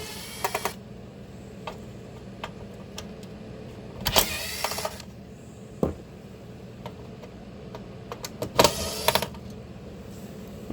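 A power screwdriver whirring in three short bursts, about four seconds apart, backing out the glove box hinge screws, with small clicks and knocks from handling the screws and parts in between.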